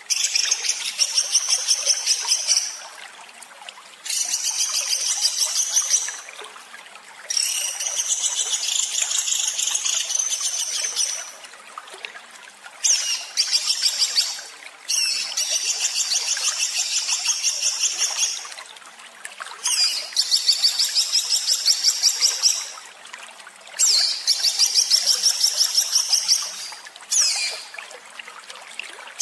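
A small songbird sings harsh, rapid 'tembakan' phrases. Each is a fast, even string of high notes lasting two to four seconds, with short pauses between, about eight times in a row.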